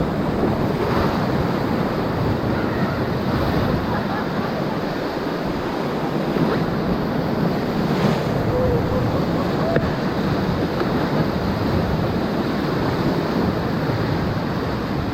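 Whitewater of the Ocoee River rushing steadily around a raft, a continuous, even noise.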